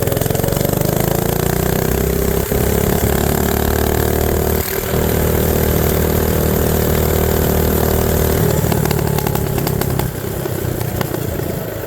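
Mini bike's Predator 212cc single-cylinder four-stroke engine pulling at full throttle. Its pitch rises over the first couple of seconds and holds high, then falls off about two-thirds of the way in as the throttle is released.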